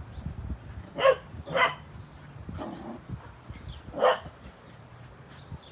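Golden retriever puppy barking: four short single barks, the third fainter than the others.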